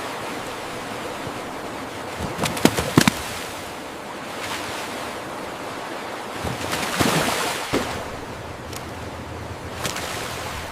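Sea water rushing steadily in a ship's wake, with sharp splashes: two about three seconds in and two more around seven seconds.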